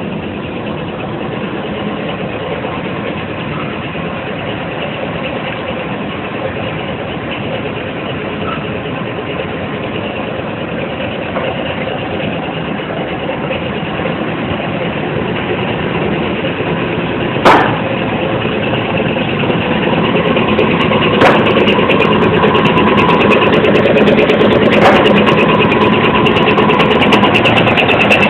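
Coffee dryer machinery running with a steady mechanical drone that grows louder over the second half. A sharp knock comes a little past halfway, then two more a few seconds apart.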